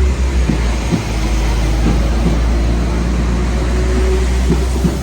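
A train running at the platform: a loud, steady low rumble with a faint hum above it and a few light clicks.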